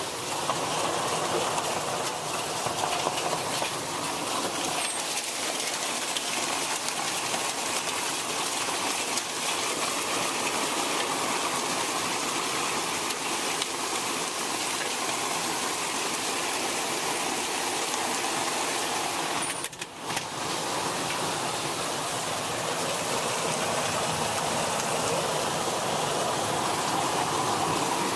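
Pea-sized hail and heavy rain pelting down hard, a dense steady patter of countless small impacts. It dips briefly about twenty seconds in.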